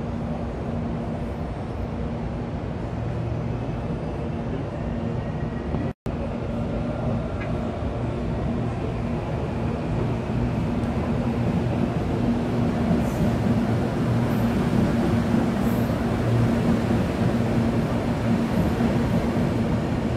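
Electric commuter train running through the station: a steady low hum and drone, cut off for an instant about six seconds in and a little louder in the second half, with a few faint high squeaks near the end.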